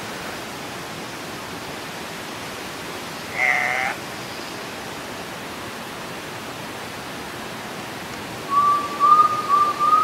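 A male Andean cock-of-the-rock gives a single short nasal squawk about three and a half seconds in, over a steady hiss of forest background. Near the end comes a louder run of four short whistled notes, each a little higher than the last.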